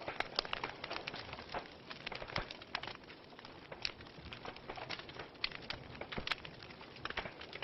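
Fire burning in a fireplace, crackling: irregular sharp pops and snaps over a steady hiss.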